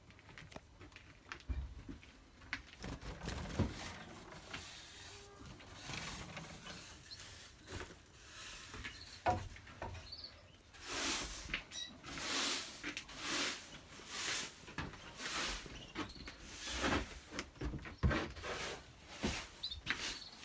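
Rustling, clicking and light knocking around a canary breeding cage, with a run of soft swishes about once a second in the second half.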